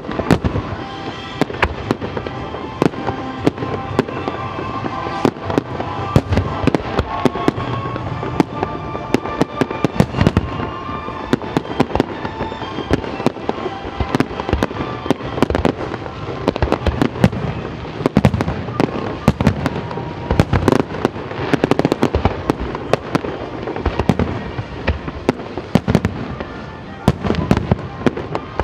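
Fireworks display: many shells bursting in quick, irregular succession, sharp bangs over a continuous crackle and rumble.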